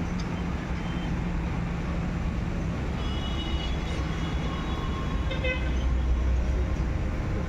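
Diesel engine of a Massey Ferguson 254 tractor running steadily with a low, even rumble.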